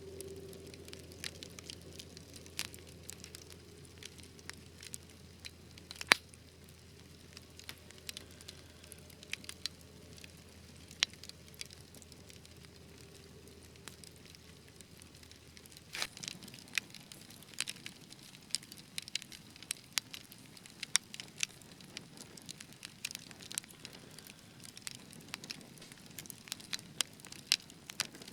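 Wood fire crackling: scattered sharp pops and snaps over a soft hiss, with one loud snap about six seconds in. The pops come much more often from about halfway through.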